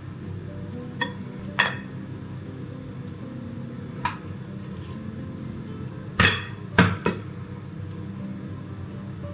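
Six sharp knocks and clinks of kitchenware being handled, the loudest two about two thirds of the way in, over soft background music.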